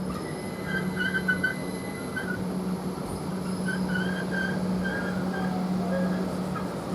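Class 387 electric multiple unit standing at the platform with a steady low electrical hum. Short bird chirps come and go over it.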